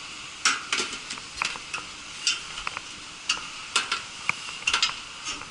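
Irregular metallic clicks and clinks, about a dozen sharp knocks scattered across the few seconds, as of metal tools and parts being handled.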